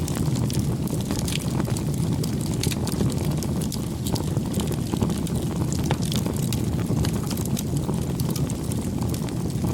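Wood fire burning: a steady low rumble with frequent small, sharp crackles and pops scattered throughout.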